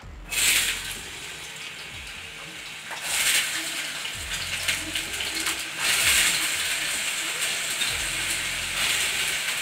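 Diced potatoes dropped into hot ghee in a kadhai, hitting with a loud sizzle just after the start and then frying with a steady sizzle. The sizzle surges again about three seconds and six seconds in.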